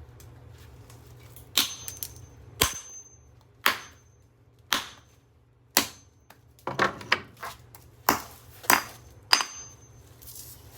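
Hammer blows on a small microwave motor: about a dozen sharp strikes, roughly one a second, several of them leaving a brief high metallic ping.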